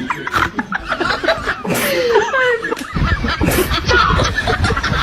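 Laughter: short bursts of snickering and chuckling with gliding, up-and-down vocal sounds, louder and denser from about three seconds in.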